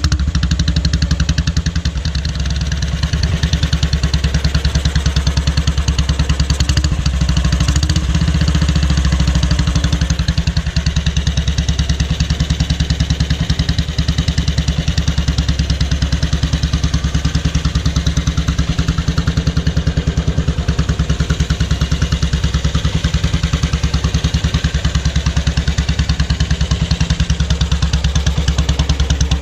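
Horex Regina 350 single-cylinder four-stroke engine idling steadily through short, open 'Kurze Tüten' mufflers, giving a loud, even exhaust beat.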